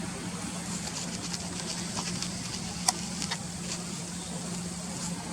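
Steady rushing of a river with a constant low hum beneath it, and a run of short high-pitched ticks between about one and four seconds in, the sharpest one about three seconds in.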